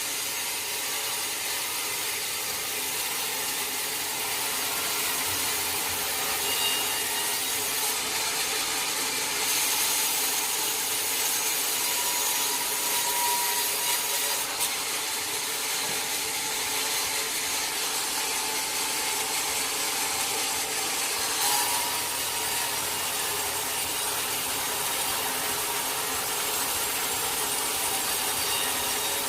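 Sawmill saw blade cutting steadily lengthwise through a teak log, a continuous even rasping sound.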